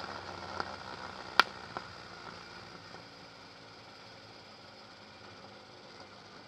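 Suzuki Samurai with a straight-through exhaust going off the throttle: its engine note dies away to a faint, steady low hum. About a second and a half in there is one sharp crack, with a couple of lighter clicks just before and after it.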